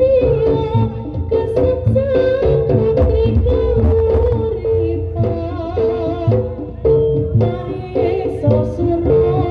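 Live kuda lumping (jaranan) troupe music: drums beating a steady rhythm with sharp strokes, under a held, wavering melody line near the middle of the range.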